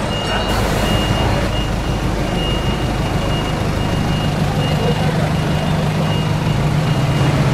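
Vehicle engines idling in city street traffic, with a steady low hum. A high-pitched electronic beep sounds on and off throughout, like a reversing alarm.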